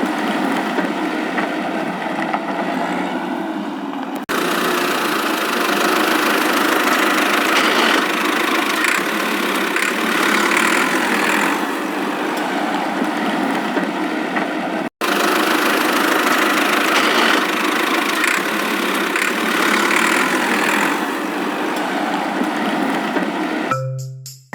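Steady engine-like running sound, broken by two abrupt edits, with a marimba-like music jingle beginning just before the end.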